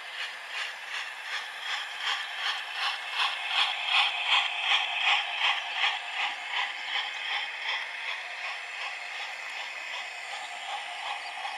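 00-gauge model train running along its track, a rhythmic mechanical clatter at about three beats a second that grows louder as it passes, peaks about four to five seconds in, then fades to a steadier, quieter clatter.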